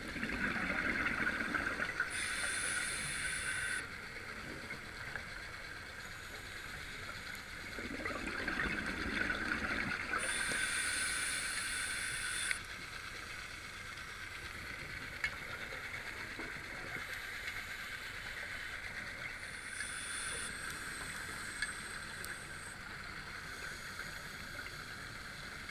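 A scuba diver breathing through a regulator underwater: twice, a bubbling exhale followed by a hissing inhale, about eight seconds apart, then a steady faint hiss with a few small clicks.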